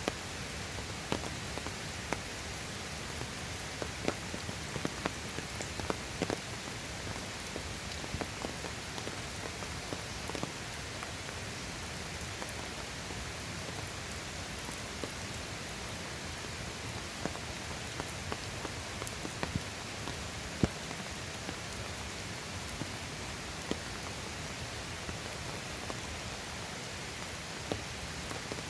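Steady rain falling, with many separate drops ticking sharply on a nearby surface.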